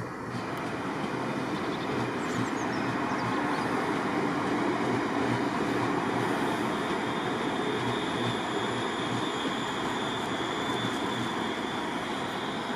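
Train running through a railway station, a steady rumble of wheels on track that builds to a peak about halfway and then eases off, with a faint high whine in the second half.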